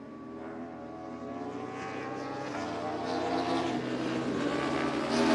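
Racing superbike engine running at high revs, a steady pitched drone that grows steadily louder as the bike approaches.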